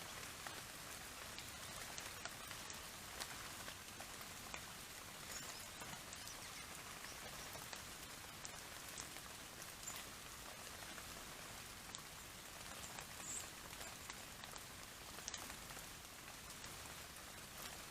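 Light rain pattering, faint, a dense scatter of small drop ticks over a steady hiss.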